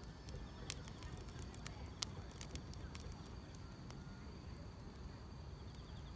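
Wood fire crackling, with scattered sharp pops about a second apart, a loud one near the start and another about two seconds in, over a steady high chirring of grass insects.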